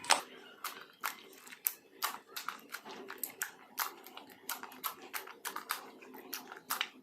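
Soft slime being squeezed and stretched by hand, with irregular wet crackles and pops several times a second as air bubbles in it burst.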